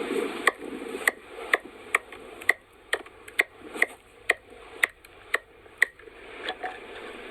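A run of sharp taps or clicks repeating evenly about twice a second, about a dozen in all, stopping about six seconds in.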